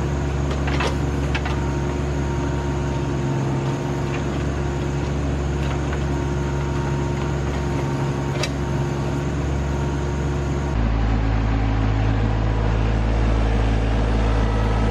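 RK25 subcompact tractor's diesel engine running steadily, with a few sharp knocks about a second in and near the end of the first stretch. About eleven seconds in the sound cuts abruptly to a louder, lower, steady engine hum.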